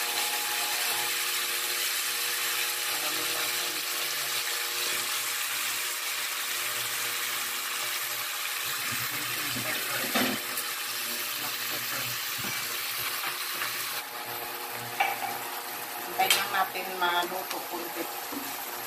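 Squid rings sizzling and simmering in their juices in a wok, over a steady hum of several tones. A utensil knocks once about halfway through, and a few more knocks and clatters come near the end.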